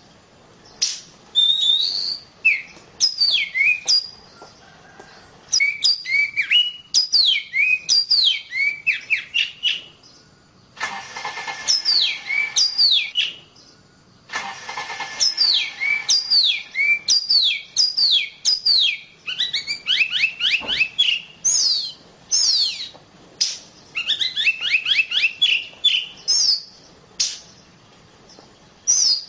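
Female Oriental magpie-robin (kacer) giving breeding-season song: phrases of quick, down-slurred whistles with short pauses between them, and two stretches of harsh rasping notes about 11 and 14 seconds in.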